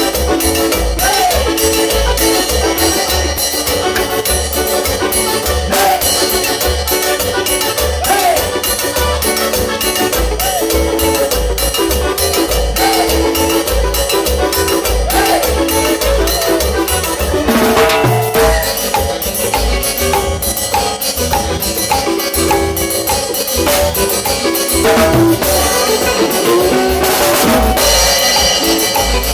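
Cumbia band playing: a steady drum and percussion beat over a pulsing bass line, with melodic parts above.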